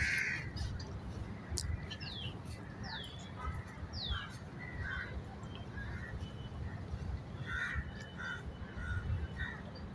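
Birds calling: three short falling whistles about two, three and four seconds in, and several short harsher calls through the rest, over a steady low rumble.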